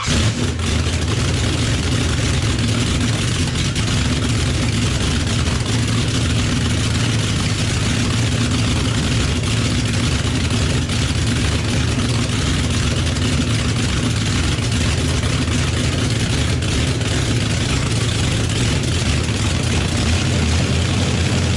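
Cold Chevy small-block V8 running steadily on its first start, coming in abruptly right at the start.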